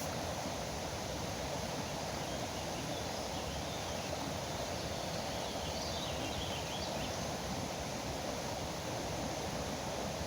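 A river running steadily, with faint bird chirps in the middle.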